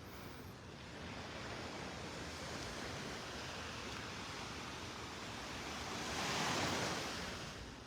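Gentle Gulf surf washing onto the beach as a steady hiss, with a wave swelling and breaking about six seconds in; light wind on the microphone.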